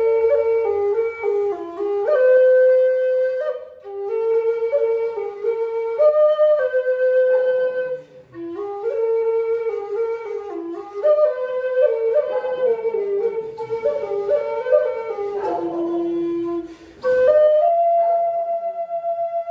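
A flute playing a melody in phrases, one note at a time, with short breaks between phrases. It ends on a long held note with vibrato.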